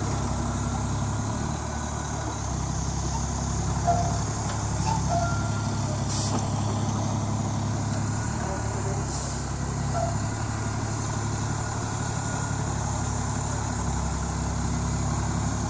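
Heavy truck engine running with a steady low drone, and a short hiss about six seconds in.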